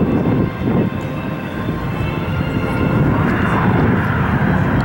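Military aircraft flying past at an airshow, a loud steady engine noise that dips briefly about half a second in and builds again after about three seconds.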